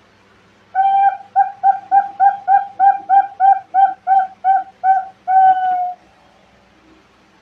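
Zebra dove (perkutut) cooing: a run of about a dozen short, even coos, roughly three a second, ending in one long drawn-out coo.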